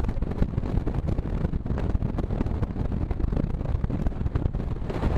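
Electric local train running along the track: a steady low rumble of wheels on rails with irregular clattering, and wind buffeting the microphone.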